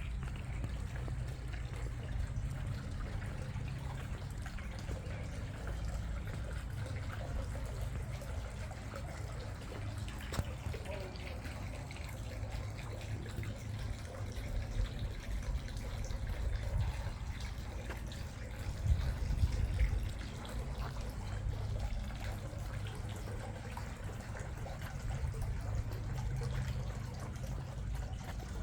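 Water trickling, over a steady low rumble, with scattered small ticks and a louder patch about two-thirds of the way through.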